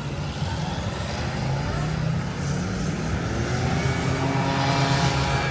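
A motor vehicle's engine running close by on a street, slowly growing louder toward the end.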